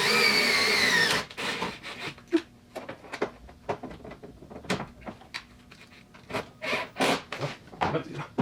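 Power drill driving a self-tapping screw, its whine sagging in pitch and stopping about a second in, followed by a string of irregular clicks, knocks and rubs as the spoiler and screws are handled.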